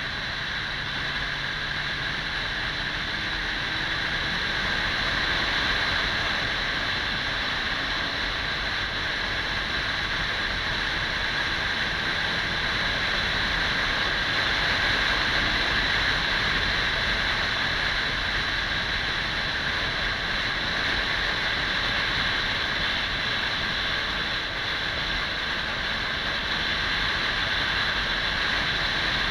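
Kawasaki 400 cc motorcycle under way: steady wind rush over the microphone, with the engine faint beneath it.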